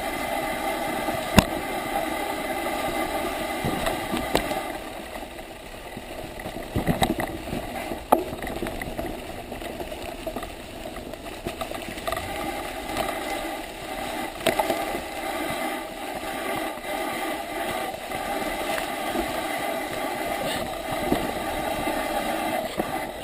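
Bicycle on a wet forest trail: a steady mix of tyre and drivetrain noise, with a few sharp knocks from the bike over bumps.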